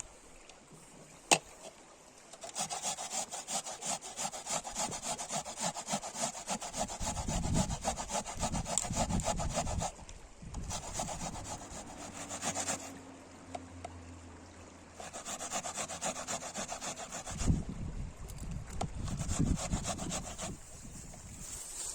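Hand saw cutting through wood in quick back-and-forth strokes, in two long bouts with a pause between them. A single sharp click sounds about a second in.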